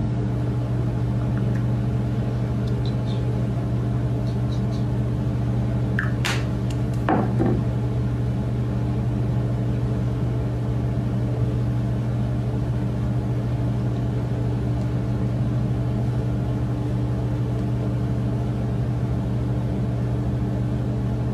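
A steady, loud, low mechanical hum that does not change, with a few brief high squeaks about six to seven seconds in.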